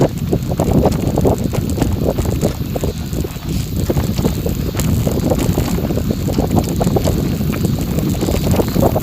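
Wind buffeting the microphone over the rumble and many small crackles of bicycle tyres rolling on a gravel forest road.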